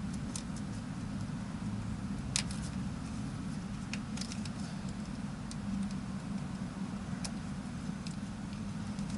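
Steady low engine hum, with scattered small clicks and taps from hand work on the wiring; the sharpest click comes about two seconds in.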